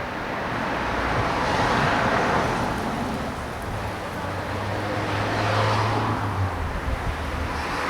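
Road traffic passing, cars swelling up and fading away one after another, over a steady low hum that stops near the end.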